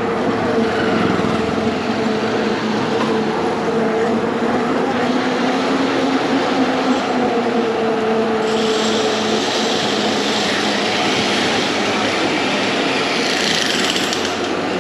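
Fat bike rolling at speed: the wide tyres give a steady droning hum on the road, mixed with wind rushing over the microphone. A higher hiss joins about halfway through.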